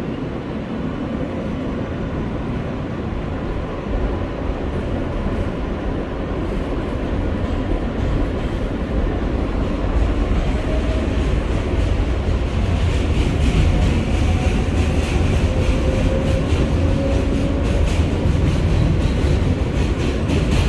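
R143 subway train running, heard from inside the car. The steady rumble grows louder about halfway through, with rail clicks and a faint whine that drifts slightly in pitch.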